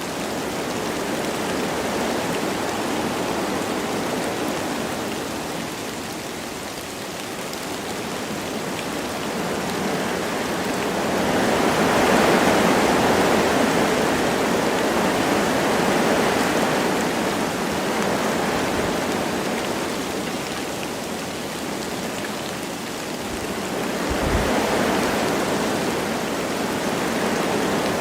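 Wind blowing through forest trees with light rain falling. It is a steady rushing hiss that swells and eases in slow gusts, loudest about twelve seconds in and again near the end.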